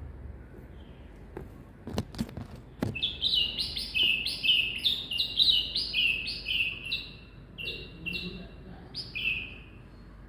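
Baby birds in a nest chirping: a fast run of short, high, downward-sliding cheeps, about three or four a second, starting about three seconds in and thinning out toward the end. A few sharp clicks come just before the chirping starts.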